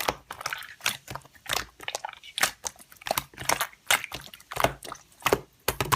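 Slime being pressed and squeezed by hand, giving a string of quick, irregular crackling clicks and squishes.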